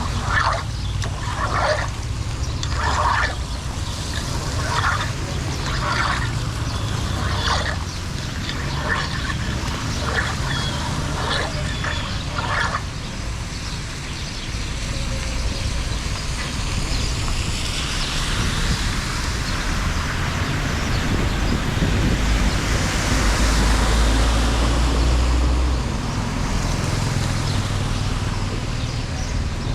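Running water, with a series of short rough strokes about a second apart in the first half, then a swelling rush of water noise with a low rumble in the second half.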